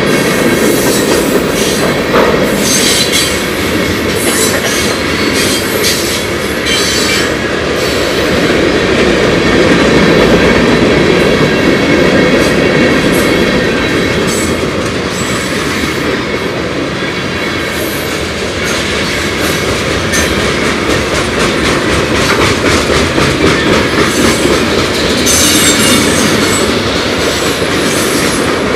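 A long freight train's cars rolling past close by, loud and steady: steel wheels rumbling on the rails with rapid, continuous clicking over the rail joints, and a few brief high-pitched flares.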